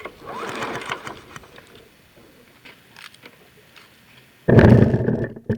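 Recoil pull-starter of a 6.5 hp Briggs & Stratton Intek mower engine pulled to crank the engine with its spark plug out, for a spark test. There is a soft rasp about a second in, then a loud pull about a second before the end, with a short second one right after.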